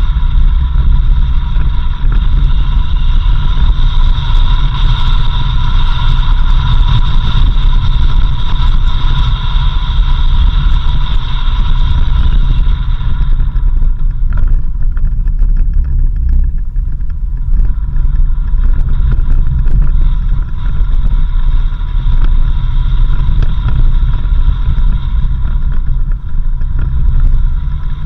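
Vehicle driving along a country road: steady, loud low rumble of engine and tyres, with a steady high whine that drops out about halfway through and returns near the end.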